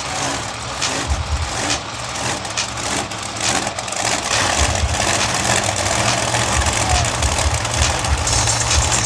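Monster truck engine turning over and running low and uneven, its pulsing rumble growing stronger from about four seconds in, over a background of crowd and arena noise.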